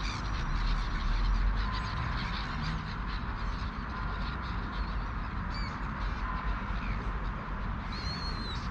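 Steady low rumble of outdoor background noise with a few faint, high bird chirps, the clearest about eight seconds in.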